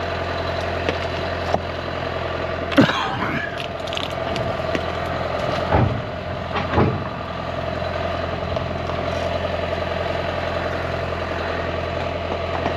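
Heavy vehicle engine idling steadily, with a few short knocks and clanks over it.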